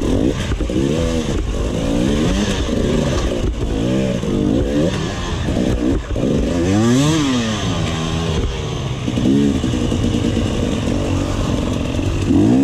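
Enduro dirt bike engine being revved up and down in quick, repeated throttle blips, with a longer rise and fall about seven seconds in, as the bike is ridden over a log obstacle and out onto a dirt track.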